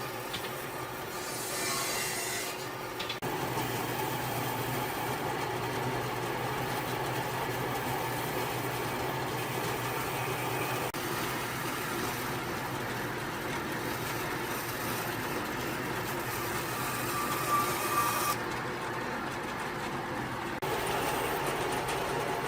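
Woodworking tool noise: a steady rasping sound of wood being worked, which changes abruptly a few times.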